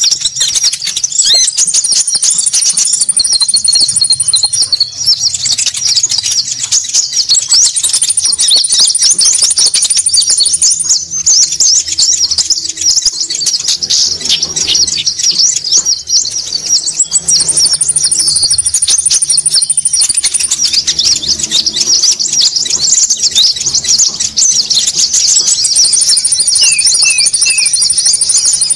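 Bird-lure recording of konin birds: a dense, busy chatter of many small birds chirping over one another, with a high thin trill that comes back every several seconds.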